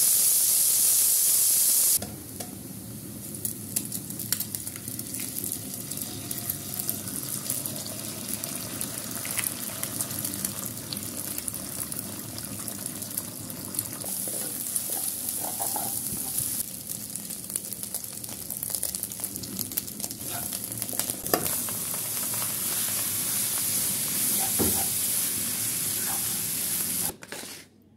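Sliced onion, green chilli, egg and noodles frying in hot oil in a wok, stirred with a spatula that clicks and scrapes against the pan. A loud sizzle for the first two seconds settles into a steadier, quieter frying hiss, and the sound cuts off about a second before the end.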